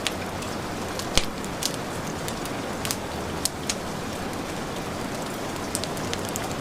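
Heavy rain falling in a steady hiss, with the sharp pops and crackles of a fireplace fire scattered through it; the loudest pop comes about a second in.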